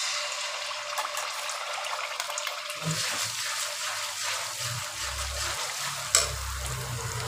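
Onion paste sizzling and crackling as it fries in hot ghee in a kadai, the sizzle starting suddenly as the paste drops into the fat. A metal spatula stirs and scrapes through it.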